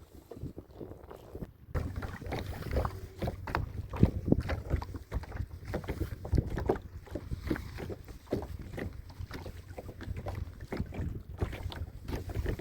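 Irregular knocks, taps and rustling as a tent and its fittings are handled aboard a small boat, over a low rumble of wind on the microphone.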